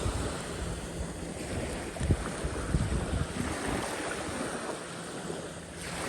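Small waves washing on a bay beach, with wind buffeting the microphone. A faint steady low hum runs underneath.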